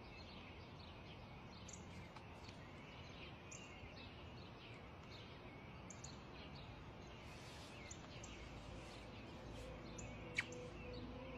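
Faint small birds chirping in short repeated calls over quiet outdoor background noise, with one sharper falling chirp about ten seconds in. Soft music tones come in faintly near the end.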